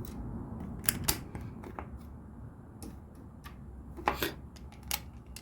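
LEGO bricks clicking as they are handled and pressed into place: a few sharp plastic clicks spread out, a pair about a second in and a quick cluster about four seconds in.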